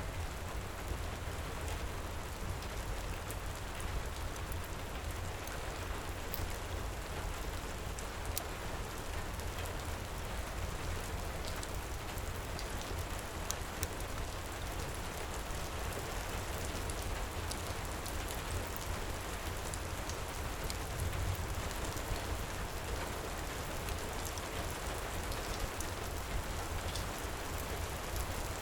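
Heavy rain pouring steadily, with a deep low rumble under it and scattered small crackles from a wood fire in a fireplace.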